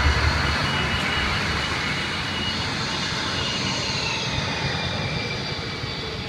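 Recorded jet airliner engine sound played over the miniature airport's loudspeakers for a model plane's take-off or landing: a steady rushing jet noise with a high whine that glides slightly down midway and slowly fades, after a deep rumble dies away at the start.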